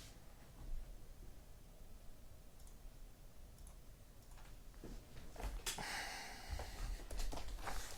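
Cardboard case of trading-card boxes being handled: scattered small clicks and knocks, with a brief rustling scrape about five and a half seconds in.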